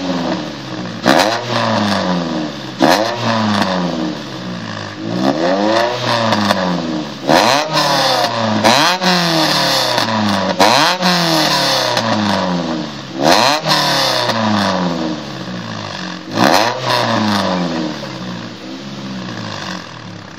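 Ford Fiesta ST revved hard about ten times through a Miltek de-cat, non-resonated exhaust. Each blip rises and falls back in pitch, several open with a sharp crack, and the engine settles back toward idle near the end.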